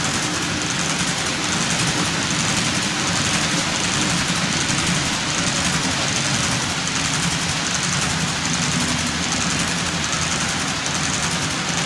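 HO-scale model train running: three model diesels (an SD45 and two U33Cs) pulling a long string of covered hoppers, with a steady rolling rumble of wheels on the rails and a low motor hum.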